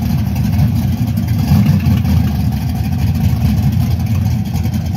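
Drag car's engine idling loudly and steadily close by, a heavy choppy low rumble with no revving.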